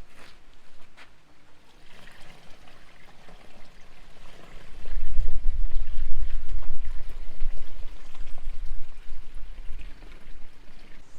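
Water poured from a bucket into the tub of a mini washing machine, building to a heavier, louder pour about five seconds in that eases off near the end.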